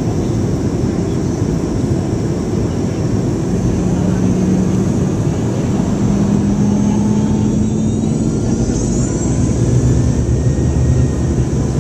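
Cabin noise inside a Boeing 717-200 near the tail-mounted Rolls-Royce BR715 jet engines: a steady loud rumble with low engine hum tones that shift in pitch, and a faint rising whine about eight seconds in.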